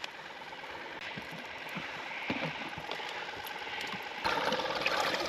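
Freshwater shrimp flicking and rattling inside a shrimp net, heard as scattered small clicks over the sound of water. About four seconds in, a louder, denser rush of water sets in as the net is handled.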